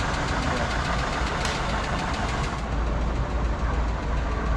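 A big 1959 car's engine running at a low, steady idle. The rumble grows stronger a little past halfway.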